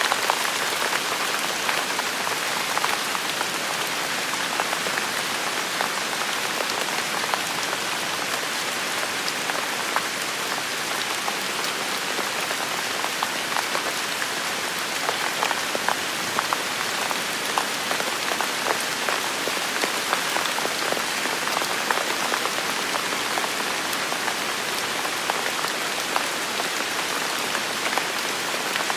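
Steady rain falling, an even hiss with many small drops ticking and pattering on a surface.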